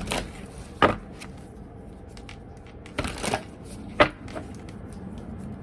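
Tarot cards being shuffled and handled: a few short card slaps and shuffling sounds.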